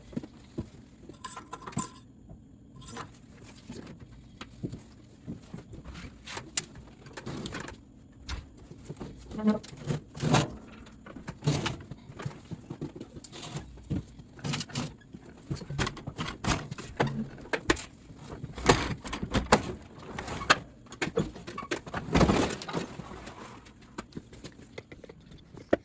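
Irregular clicks, knocks and light rattles of hands working on a lawn tractor with the engine off.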